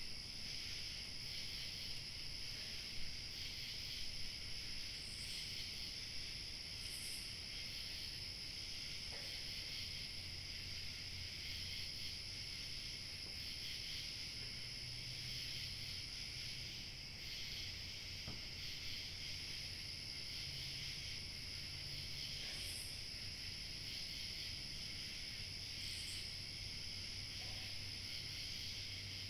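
Chorus of crickets chirping, a steady high-pitched sound that goes on without a break.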